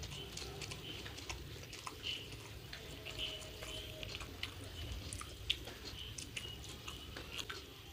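Close-up wet chewing and lip-smacking of a person eating a grilled chicken burger, with many small mouth clicks and a sharper smack about five and a half seconds in.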